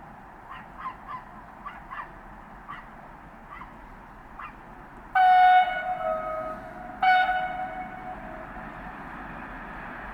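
Train horn sounding two blasts, the first about two seconds long and the second a little shorter, each stepping down from a higher to a lower note. A few short faint chirps come before the horn, and the noise of the approaching train builds toward the end.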